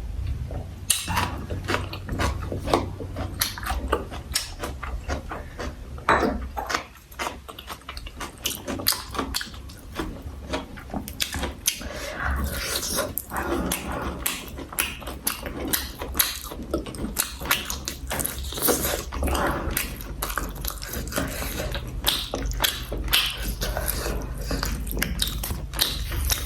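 Close-miked chewing of food, a dense run of irregular wet clicks and smacks that goes on, with a brief lull about seven seconds in.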